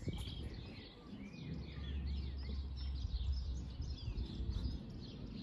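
Several small birds chirping and singing, many short rising and falling calls overlapping, with a low rumble underneath for a couple of seconds in the middle.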